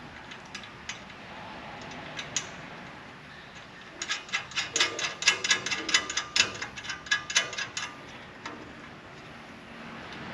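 Ratchet wrench clicking as a nut is run down onto a seat-mount bolt: a quick, even run of clicks for about four seconds, starting about four seconds in, with a few light handling clicks before it.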